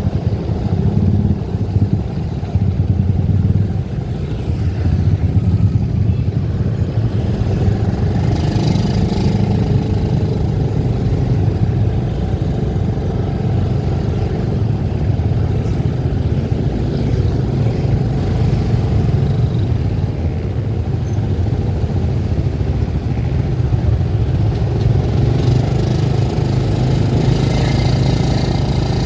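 Vehicle engine running steadily while driving, with a continuous low rumble of engine and road noise and a brief hiss of higher noise about eight seconds in.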